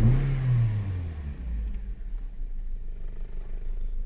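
Toyota Corolla four-cylinder engine dropping back from a brief throttle blip to a steady idle. It has a cylinder 2 misfire logged by the scan tool, which the mechanic blames on the number 2 ignition coil.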